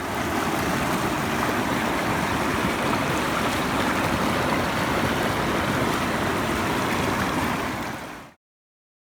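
Steady rushing of water in a mountain stream, fading in at the start and out near the end.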